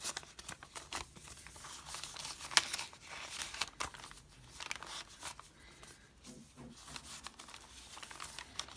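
Paper rustling and crinkling as the pages, pockets and journaling cards of a handmade paper junk journal are handled and turned, with scattered soft clicks and one sharper tap about two and a half seconds in.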